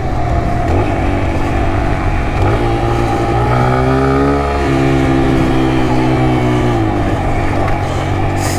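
2021 Kawasaki KLX140 pit bike's single-cylinder four-stroke engine under way while riding, its pitch climbing with throttle around the middle and settling lower near the end.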